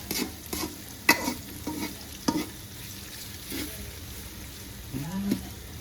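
A spatula scraping and clacking against a pan as onion and tomato fry in hot oil with a steady sizzle. A short rising tone comes near the end.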